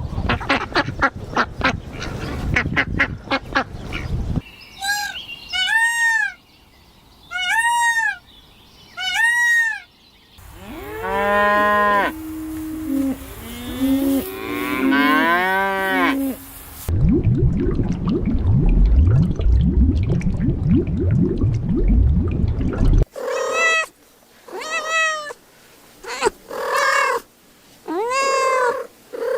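A string of short animal-call clips cut one after another, each with a different kind of call: four evenly spaced high, arching cries, then lower calls, a noisy stretch, and more arching cries near the end.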